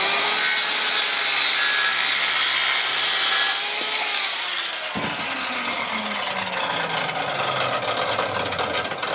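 Power saw cutting through a wooden board, loudest for about the first three and a half seconds, then the blade winds down with a steadily falling pitch; a sharp click about five seconds in.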